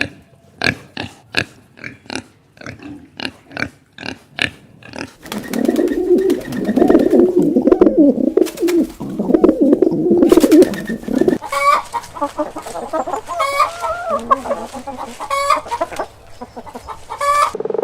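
Chickens clucking. A run of short, evenly spaced clucks comes first. About five seconds in it gives way to a dense flock chatter, then to separate rising and falling hen calls.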